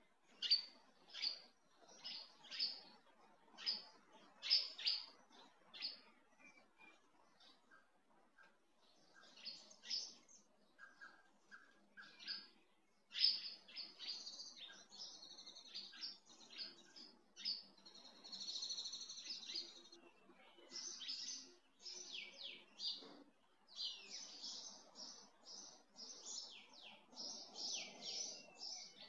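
Small birds chirping: a string of short high chirps, sparse at first and thicker past the middle, with one longer warbling phrase.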